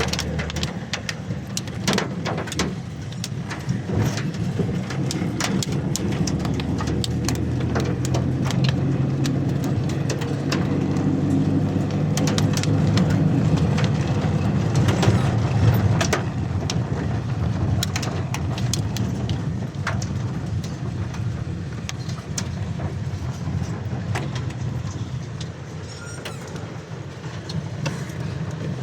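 Hail coming down with rain: hailstones strike a hard surface in sharp, irregular clicks over a steady hiss of rainfall. A steady low hum runs underneath and swells a little around the middle.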